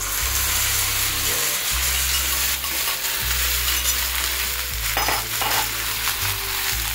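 Curd-marinated raw chicken pieces sizzling as they fry in hot sesame oil with browned onions in a frying pan, with a spatula stirring and turning them.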